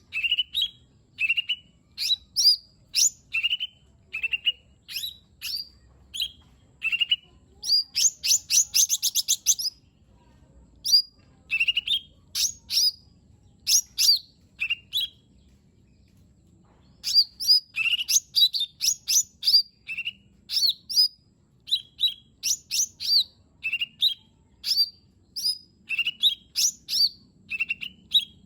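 Lesser green leafbird (cucak ijo mini) singing: quick runs of short, sharp whistled notes sweeping up and down, with a fast trill about eight seconds in and a pause of a second or two midway.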